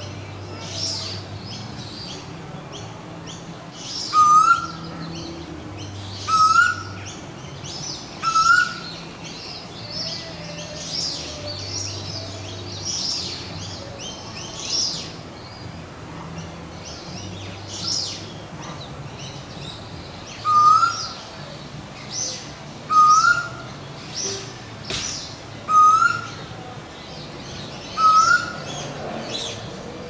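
Birds calling: a loud, short rising note repeated about every two seconds in two runs, four in the first third and four more after a long pause, over a constant mix of high, thin chirps and quick falling twitters.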